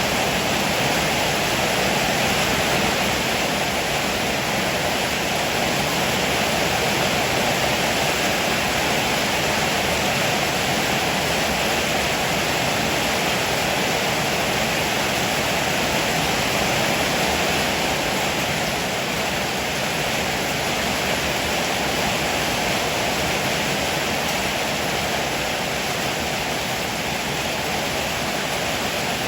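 Heavy rain pouring down steadily, an even hiss with no pauses or sudden cracks.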